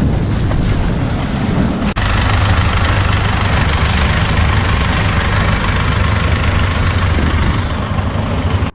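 Long-tail boat's engine running steadily and loudly, with a brief dropout about two seconds in.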